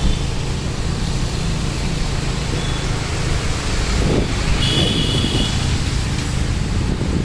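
Road traffic in the rain: a steady wash of vehicle engines and wet-road noise with a low rumble, and a brief high-pitched tone about five seconds in.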